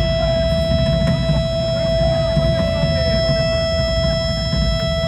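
Live rock band sound through the stage amplification: a steady high held tone, like amplifier feedback or a sustained guitar note, over a dense low rumble, with faint crowd voices.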